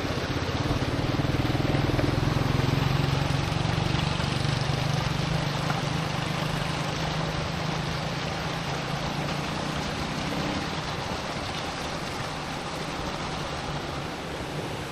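A small engine running steadily, fading out over about ten seconds, over the steady rush of a stream.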